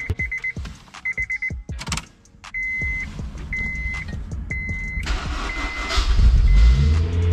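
Honda S2000 cabin warning chime beeping, first in quick trills and then in longer single beeps, with a few clicks from switches. About five seconds in the starter cranks and the four-cylinder engine catches, then settles into a steady idle.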